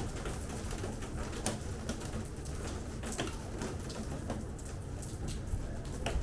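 Light rain: irregular drips tapping near the microphone over a steady low rumble.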